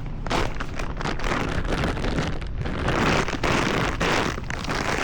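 Wind buffeting an exposed action-camera microphone in a snowstorm, a loud, uneven rushing that rises and falls in gusts.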